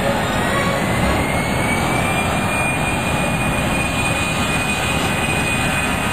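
Jet airliner engines running loud, with a whine that rises in pitch over the first couple of seconds and then holds steady.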